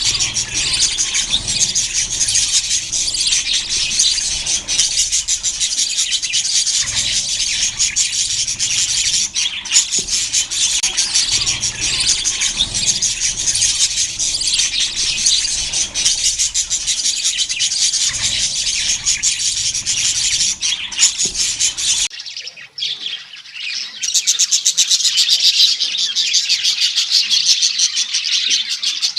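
Many budgerigars chattering and chirping together in a dense, continuous warble, with squawks mixed in. A low background rumble under the birds cuts out about three quarters of the way through, and the chatter then carries on.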